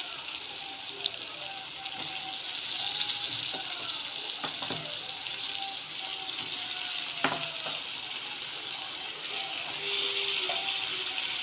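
Raw chicken pieces going into hot oil and masala in a pan, sizzling with a steady hiss, with a few knocks of a metal spatula against the pan. The sizzle grows louder near the end.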